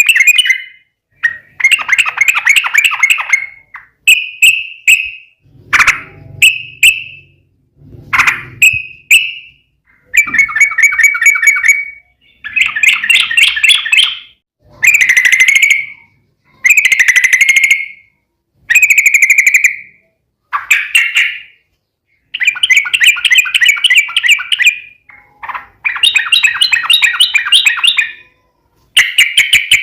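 Yellow-vented bulbul (trucukan) singing its long, rapid bubbling trill, repeated in phrases of one to two seconds with short gaps between, mixed with a few shorter chirps.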